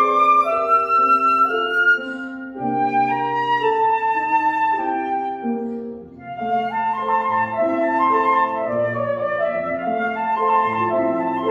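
Flute playing a classical melody over grand piano accompaniment. The phrase eases off briefly about six seconds in, then a new one begins.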